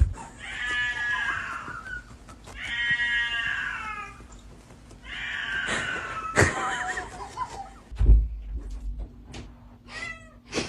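Cat meowing in three long drawn-out calls, a thump about eight seconds in, then a shorter, fainter call near the end.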